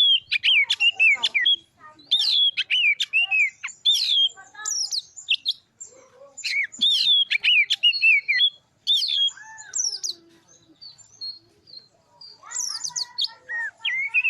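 Oriental magpie-robin (kacer) singing a fast, varied song of whistled notes that sweep up and down, in bursts of rapid phrases with short pauses between them.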